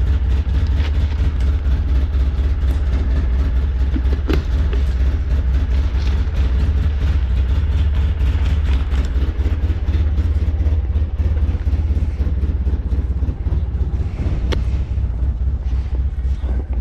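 Engine of a snowplow vehicle running steadily close by, a constant low hum, with a couple of brief knocks.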